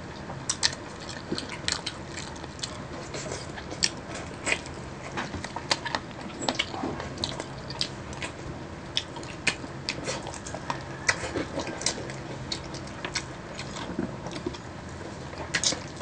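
Close-up crunching and chewing of crispy fried chicken wings, with sharp, irregular crunches coming every fraction of a second.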